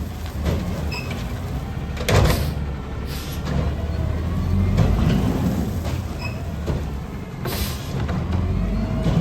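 Garbage truck's engine running steadily at low revs, with a sharp knock about two seconds in and a short burst of air hiss a couple of seconds before the end.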